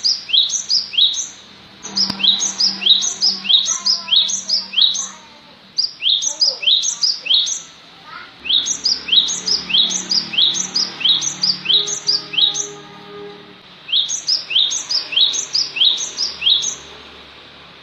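Cinereous tit (gelatik batu) song: bright notes that each fall in pitch, repeated about three a second in runs of several seconds, with short pauses between about five runs.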